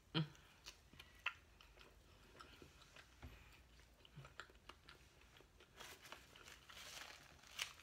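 A person biting into a chicken biscuit sandwich and chewing it, close to the microphone: faint chewing with scattered small mouth clicks.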